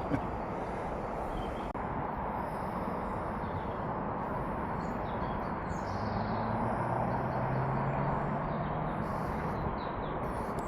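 A newly lit campfire of kiln-dried bark burning, a steady rush of flame noise. In the second half a faint low drone rises and fades.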